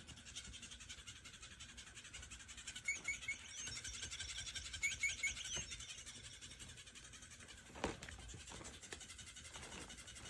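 Small bird chirping: a steady, rapid high chatter, with two quick runs of three chirps about three and five seconds in. A single knock comes near eight seconds.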